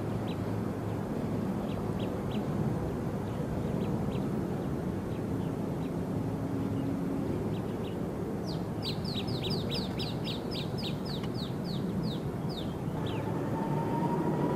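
A small bird calls with short downward chirps, scattered at first, then in a quick run of about fifteen that slows toward the end, over a steady background rumble. Near the end a jet aircraft's engine whine starts, rising steadily in pitch.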